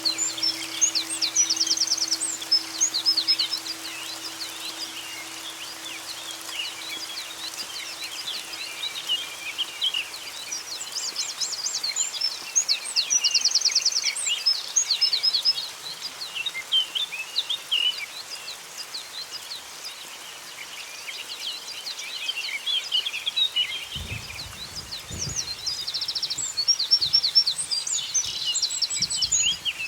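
Forest birdsong from several songbirds: many overlapping short chirps and whistles, with a rapid, evenly spaced trill coming back several times. A low held tone fades away in the first ten seconds or so, and there are a few low thuds near the end.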